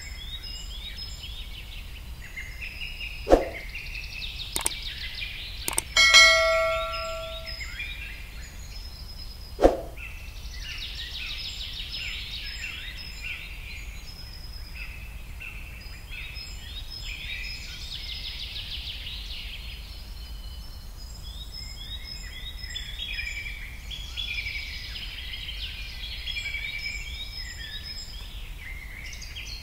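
Many birds chirping and chattering, a busy chorus of short calls that never stops. A few sharp clicks stand out, and about six seconds in a short metallic ring dies away over a second or so.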